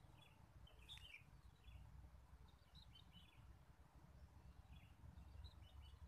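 Faint, short high chirps of small birds in little clusters every second or so, over a low rumble.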